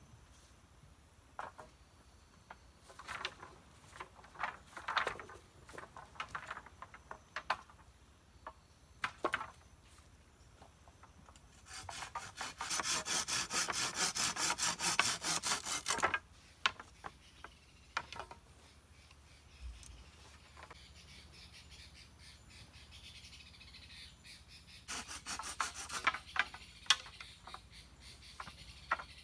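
Wood being cut with a hand saw: a fast, loud run of strokes for about four seconds, and a shorter run near the end. Scattered clicks and snaps come before it.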